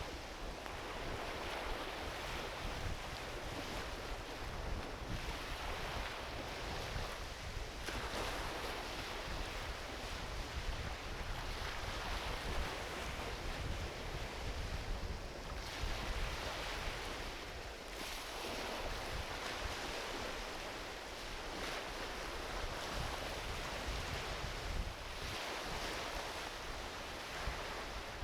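Small ocean waves breaking and washing up a beach, swelling and fading every few seconds, with some wind buffeting the microphone.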